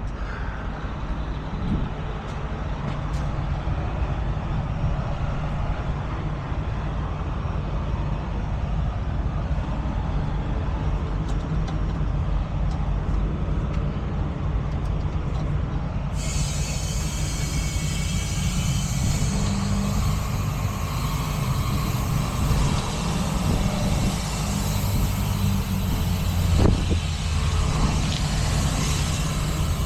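Heavy truck's diesel engine idling steadily. About halfway through, a steady hiss of compressed air starts abruptly and keeps going, as the air lines are hooked up to the towed dump truck's brakes.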